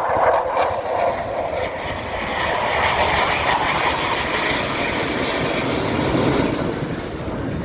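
Aircraft flying past, a loud continuous engine roar whose pitch climbs over the first few seconds and then falls steadily as it passes and moves away.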